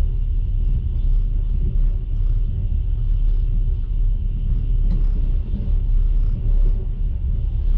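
Moving passenger train heard from inside the carriage: a steady low rumble of the wheels running on the rails, with a single faint click about five seconds in.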